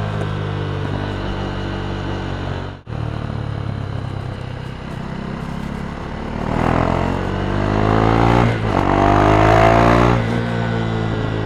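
KTM Duke 390's single-cylinder engine running through an Akrapovic exhaust, steady at first with a momentary cut-out just under three seconds in. About halfway through it gets louder and rises in pitch as it accelerates, with a brief dip in the middle, then settles back down near the end.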